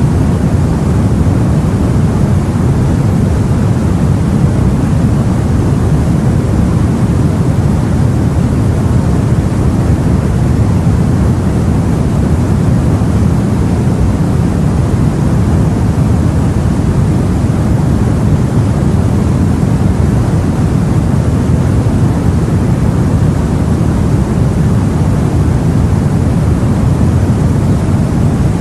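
Steady, dense low rumble of sea and wind, an even wash of noise with no separate waves or other events.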